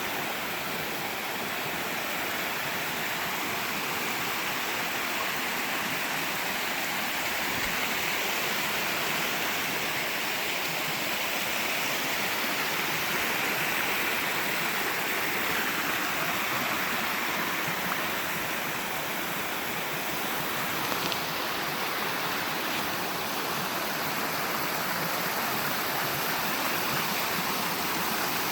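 A creek's water rushing and burbling steadily over rocks.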